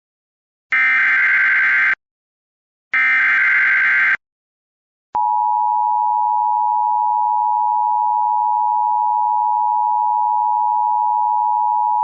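NOAA Weather Radio alert start: two short, harsh digital data bursts of the SAME header, then after a second's gap the steady single-pitch 1050 Hz warning alarm tone comes on about five seconds in and holds. The sequence signals that a weather warning, here a severe thunderstorm warning, is being broadcast.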